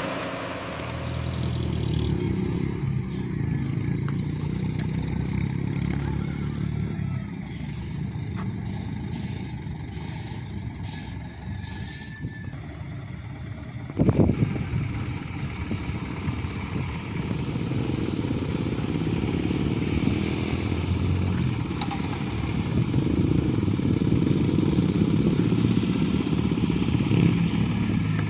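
Isuzu dump truck's diesel engine running steadily under a full load of soil, with one sudden loud clatter about halfway through.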